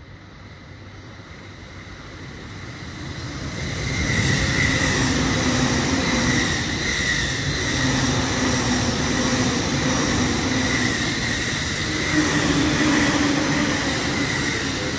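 Electric train running through the station: wheels on rails growing louder over the first four seconds, then a steady rolling rumble with a high ringing tone, easing off near the end.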